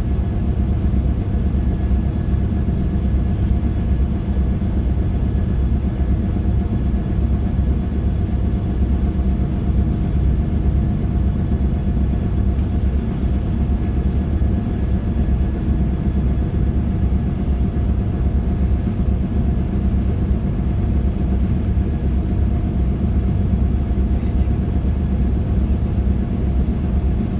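Passenger ship's engines running with a steady low rumble and a constant hum.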